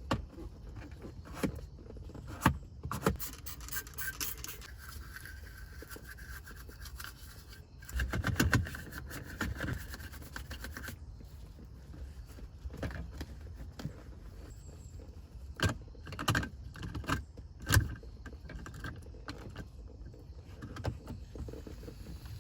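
Hands working on a car's interior: scattered knocks, clicks and rubbing of plastic trim and parts, busiest about eight to ten seconds in.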